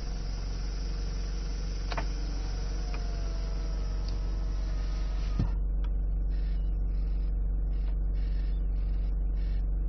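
Nissan ZD30DDTi 3.0-litre four-cylinder turbodiesel idling steadily after starting, with a short click about two seconds in and another about halfway through.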